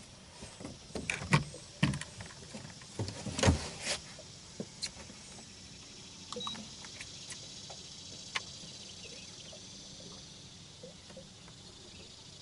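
Sharp knocks and clatter of fishing gear being handled in a boat, bunched in the first four seconds, then only scattered light ticks over a faint, steady high hiss.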